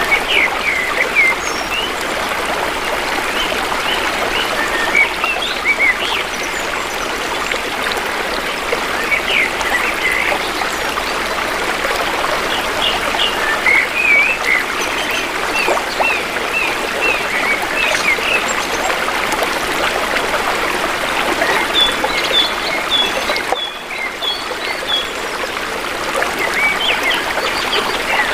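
A shallow river flowing steadily, babbling and trickling. Short bird chirps are scattered over it, with a quick run of higher chirps near the end.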